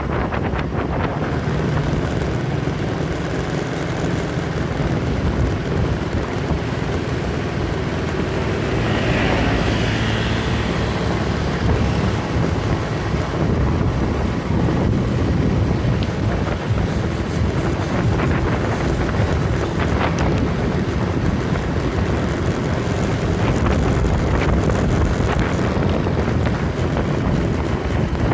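Wind buffeting the microphone, a loud steady rumbling noise, with a brief brighter hiss about nine seconds in.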